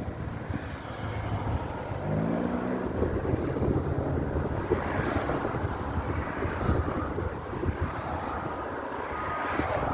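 Road traffic rumbling past with wind noise on the microphone. About two seconds in, a vehicle engine rises in pitch as it accelerates. Near the end come a few short, evenly spaced beeps.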